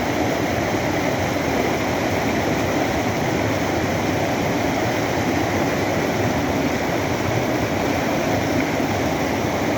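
Waterfall in flash flood: a steady, loud rush of floodwater pouring over the falls.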